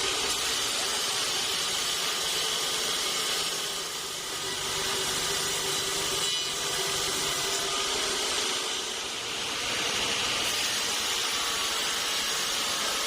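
Sawmill saw cutting through a teak log, a steady hissing rasp with a faint underlying whine that eases slightly twice.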